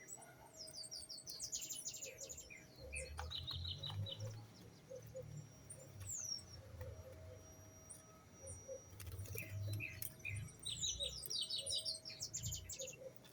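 Small songbirds chirping and singing: quick, high chirps and trilled phrases in two spells, the first about a second in and the second past the middle, over a low rumble.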